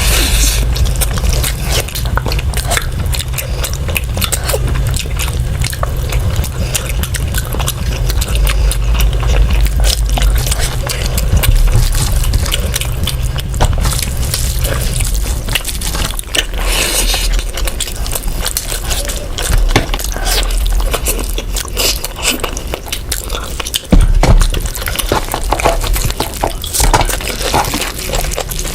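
Close-miked eating sounds: wet chewing and mouth clicks, with some scraping, over a steady low hum that fades about halfway through. There is a single louder knock about 24 seconds in.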